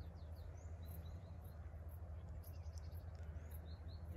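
Small birds chirping, short high chirps scattered through, over a steady low rumble.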